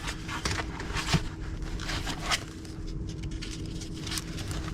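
Paper planner pages being handled and turned, with irregular rustles and soft crackles, over a faint steady hum.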